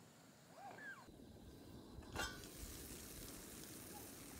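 A bird chirps briefly, then a galette with egg and ham fries in a frying pan with a faint steady sizzle. A single sharp click comes about two seconds in.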